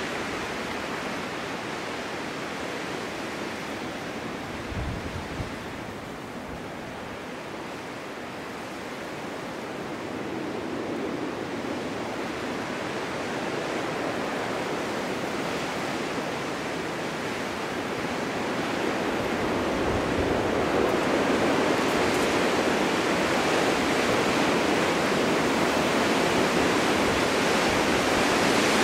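Snowstorm wind blowing steadily as an even rushing noise, swelling louder in gusts over the last third, with a brief low buffet on the microphone about five seconds in.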